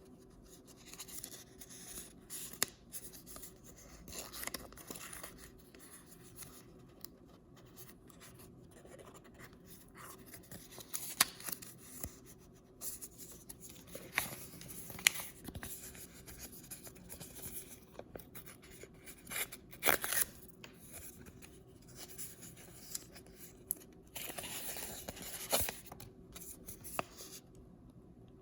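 Hands unwrapping and handling packaging: irregular crinkling and scratching rustles with sharp clicks and taps, a few louder crackles scattered through.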